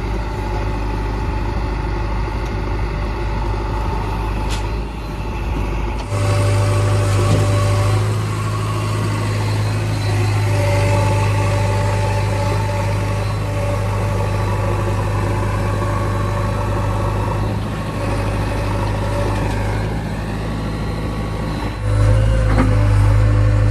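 Heavy diesel engine running steadily. Its hum gets louder and fuller about six seconds in, eases a little later on, and steps up again near the end.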